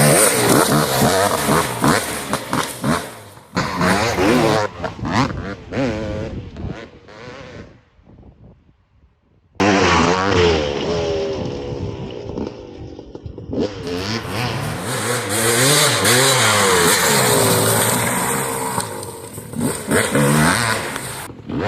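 KTM 300 SX single-cylinder two-stroke dirt bike engine revving up and down under riding, with the pitch rising and falling as the throttle is worked. It fades away to almost nothing a few seconds in, then comes back loud and abruptly about halfway through.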